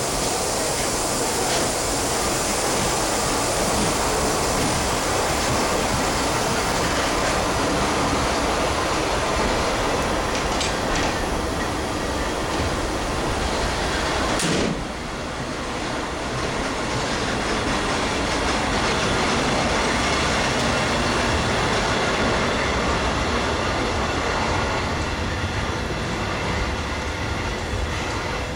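Vintage passenger coaches of a steam-hauled train rolling past at close range: a steady noise of wheels on the rails. There is a sudden click and a sharp dip in level about halfway through, after which the sound builds back up.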